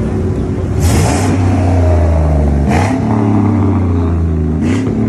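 Car engine revving and running hard, its note stepping up about a second in, with three short bursts of hiss.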